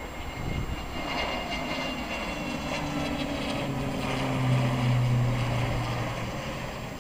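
Jet airliner passing close by: a high engine whine early, then low engine tones that drop slightly in pitch as it goes past, loudest about five seconds in.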